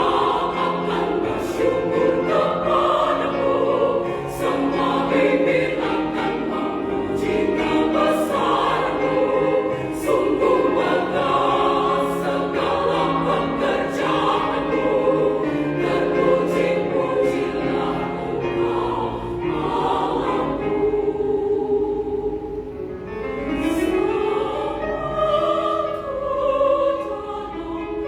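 Women's choir singing in several parts, held chords with moving lines. The voices drop back briefly about 22 seconds in, then swell again.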